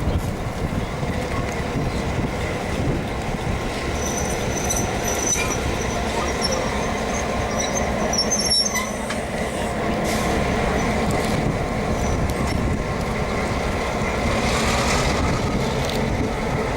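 Heritage diesel-electric locomotives hauling a passenger train along the line in a steady, dense rumble, with thin high wheel squeals about four and eight seconds in.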